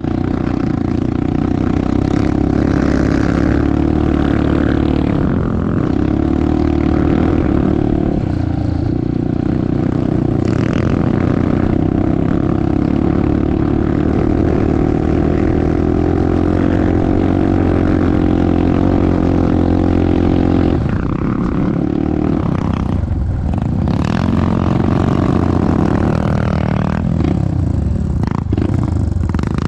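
Yamaha TT-R230 dirt bike's single-cylinder four-stroke engine running at a steady pitch while riding, then revving down and up several times from about twenty seconds in.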